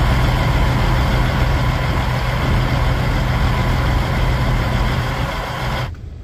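Semi truck's diesel engine running steadily, a strong low hum with a broad hiss over it. The sound drops away abruptly near the end.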